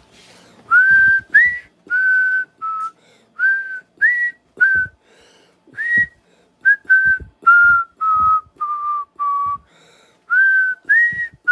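A person whistling a tune: a string of short whistled notes, about two a second, some sliding up into the note, stepping up and down in pitch.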